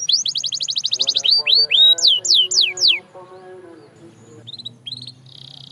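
Canary singing: a fast trill of rapidly repeated falling notes, then slower, wider downward sweeps; the song breaks off about three seconds in and picks up again with a few short notes and a brief buzzy trill near the end.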